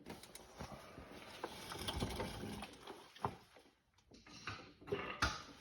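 Light clicks and scrapes of a 4T65E automatic transmission's filter being twisted and pulled down out of its seal, with a sharper knock about five seconds in.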